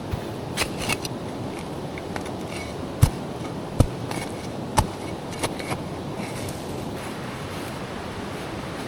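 Steady rush of river water with a series of short sharp knocks over it, the three loudest about a second apart near the middle.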